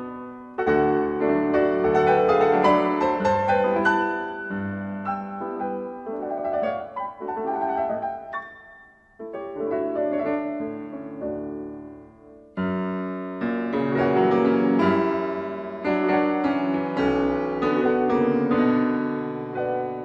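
Background piano music: slow phrases of sustained chords and melody, thinning out briefly about halfway through and again near two-thirds in before growing fuller.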